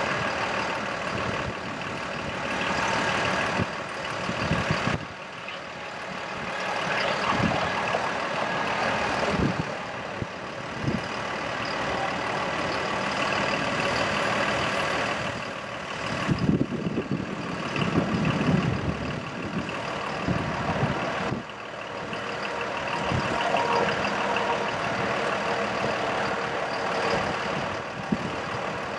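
Diesel engine of a Freightliner M2 bucket truck running steadily while its hydraulics drive the Altec LRV55 boom, with occasional knocks.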